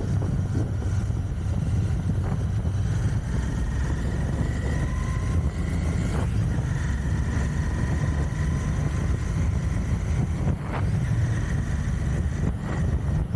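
Royal Enfield Continental GT 650's 648 cc parallel-twin engine running steadily under way, heard through its stock exhaust.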